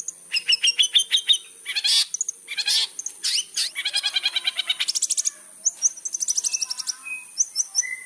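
Long-tailed shrike singing a fast, varied song: scratchy notes mixed with quick runs of evenly repeated notes and short whistles, with no pauses of more than a moment.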